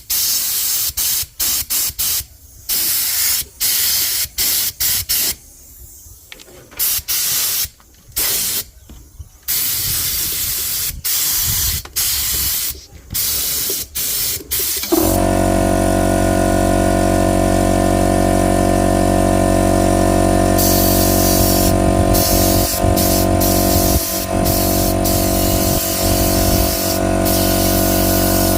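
Hissing spray in short, irregular bursts, typical of spray-painting. About halfway in a loud, steady motor hum starts and runs on under the hiss.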